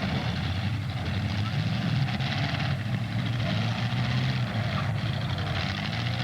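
Several demolition derby cars' engines running and revving in the arena, the pitch rising and falling, over a steady background of crowd and track noise.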